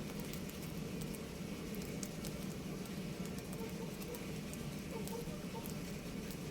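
Steady background noise with scattered faint clicks and a few faint, brief budgerigar chirps around the middle.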